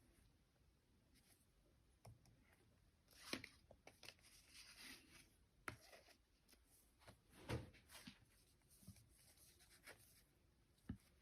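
Faint, intermittent sounds of a paintbrush being worked against the edge of a dish while mixing paint, with short scrapes and a few light taps, amid near silence.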